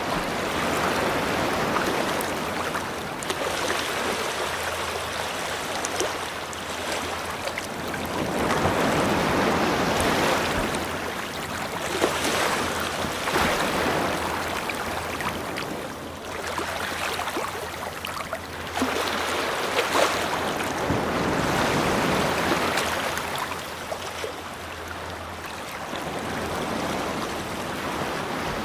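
Ocean surf washing onto a beach: a steady wash that swells and eases in slow surges every several seconds, with scattered faint crackles.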